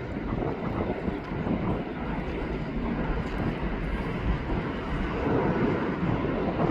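Jet airliner engines giving a steady rumble that swells slightly in the last couple of seconds.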